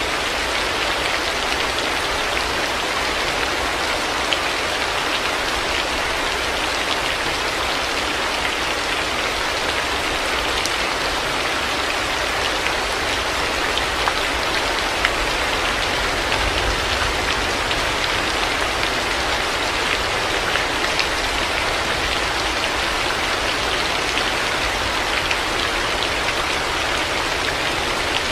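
Heavy rain falling steadily, a dense even hiss of drops with scattered faint ticks of individual drops and a low rumble underneath.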